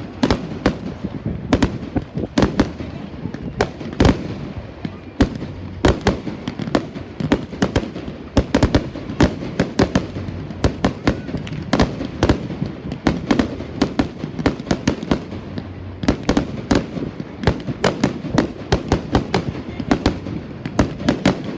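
Fireworks going off without a break: a dense, irregular run of sharp bangs and crackles, often several a second, over a continuous low rumble.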